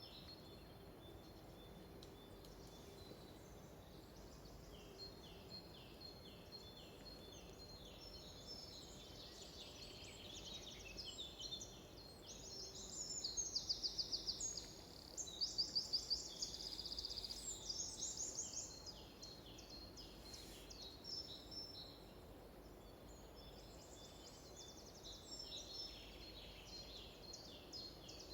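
Several songbirds singing: short high notes repeated throughout, with two loud, fast trills about halfway through.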